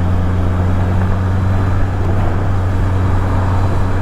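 Honda CB650R inline-four motorcycle engine running at a steady, unchanging engine speed, heard with a wash of road and wind noise.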